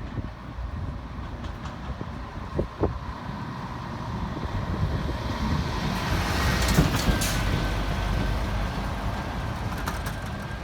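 A train passing: a rumble that builds to its loudest about seven seconds in, with a thin steady whine after the peak.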